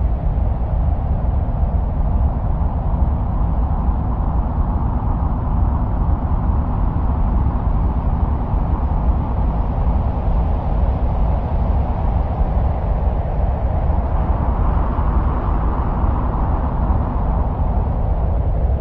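Mars soundscape: a steady, deep wind-like rumble with a hiss on top, swelling slightly about fifteen seconds in.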